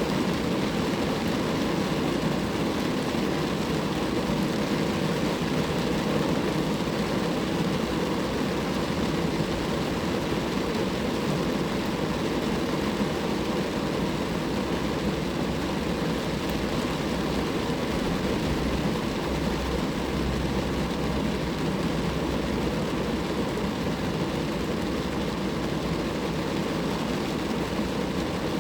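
Steady rain falling on a car, a constant even patter with no letup.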